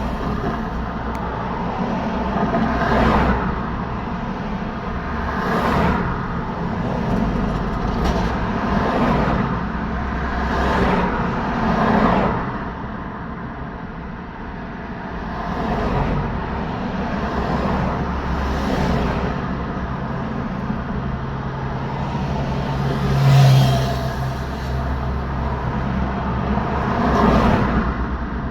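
Road traffic: a steady stream of cars, vans and trucks passing one after another, each a swelling whoosh of tyres and engine, about ten in all. The loudest passes about two-thirds of the way through with a heavy low hum, like a truck.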